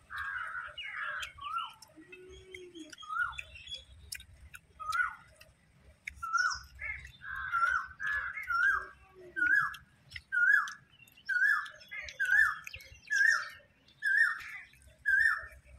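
Birds calling. Early on there is a cluster of chirps. Then one bird repeats a short hooked note, somewhat less than two a second, over fainter, higher chirps from other birds.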